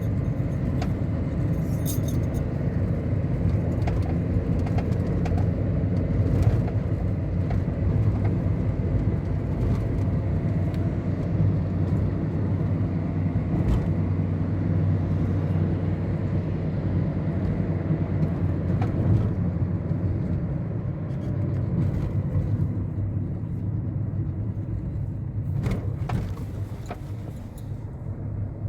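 Steady low rumble of a running motor vehicle, with a few faint clicks and a slight drop in level near the end.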